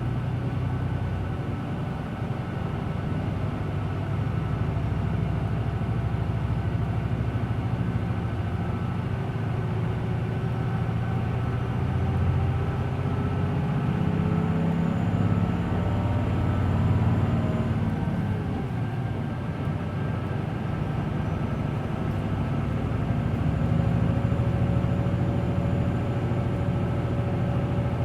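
Hino Blue Ribbon City Hybrid city bus under way, heard from inside the cabin: the diesel engine and drivetrain pull hard with rising pitch, then drop away about 17 to 19 seconds in before picking up again.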